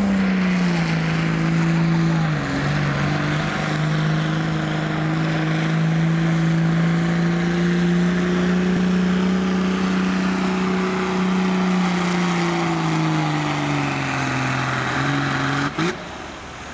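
Diesel truck engine running hard under load during a pull, holding a steady high pitch with a brief dip about two seconds in. Near the end the pitch sags, and the engine drops off suddenly with a sharp click.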